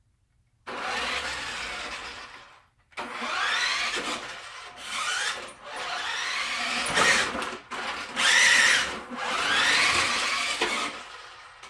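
Toy RC truck's Badzilla/Trak Attack electric motor whining through repeated bursts of throttle, its pitch sweeping up and falling back each time, with the tyres scrubbing. The first burst comes about a second in.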